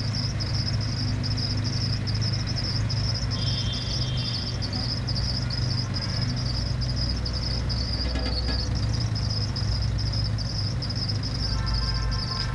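Insects chirping in a steady, rapidly pulsing high trill that never breaks, over a constant low hum.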